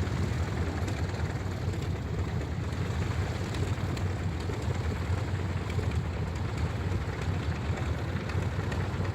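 Engine of a radio-control scale model Fleet biplane running steadily.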